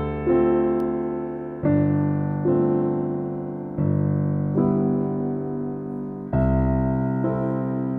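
Background piano music: slow, gentle chords struck every second or so, each fading away before the next.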